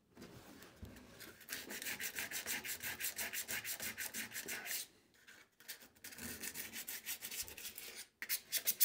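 Rapid back-and-forth scrubbing on the rusted metal of an old Craftsman radial arm saw, cleaning off WD-40-loosened rust and grime, in quick even strokes with two short pauses.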